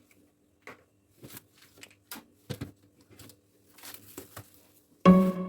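Scattered light clicks, taps and brief rustles of objects being handled, over a faint steady hum. Music starts abruptly near the end.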